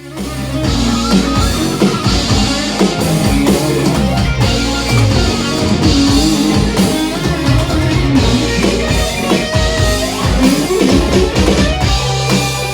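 Rock band playing: electric guitar over bass and drum kit.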